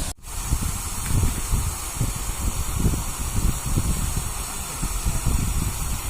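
Wind buffeting the microphone: an irregular, gusty low rumble under a steady hiss, with a momentary dropout just at the start.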